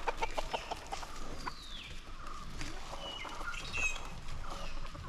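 Forest birds calling: several whistled calls that slide down in pitch, and a few short higher chirps. A quick run of clicks comes in the first second.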